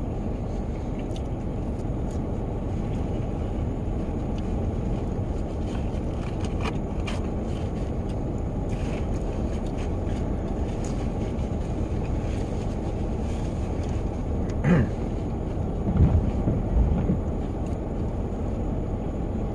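Rain falling on a van's roof and sunroof, heard from inside the cabin as a steady low rumble with scattered faint taps. A few short louder bumps come about three-quarters of the way through.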